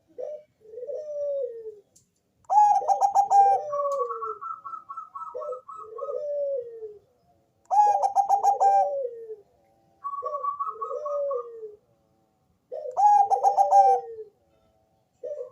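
Zebra dove (Bangkok perkutut) cooing. A loud, rapid, stuttering phrase comes three times, about every five seconds, each followed by soft, falling coos. A higher, rapid trill follows the first two phrases.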